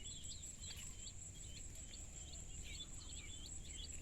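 Small birds chirping in quick, short calls, several a second, over a steady high-pitched insect whine.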